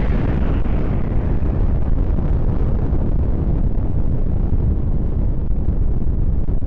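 Long, deep rumble of a huge explosion, steady in loudness, with its hiss fading so that it grows duller.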